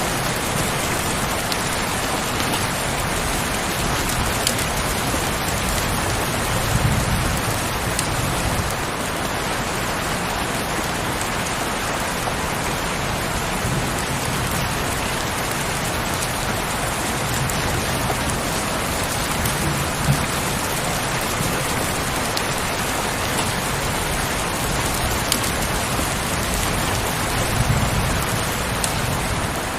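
Heavy rain falling steadily in a dense, even hiss, with a few sharp drop ticks and some soft low swells.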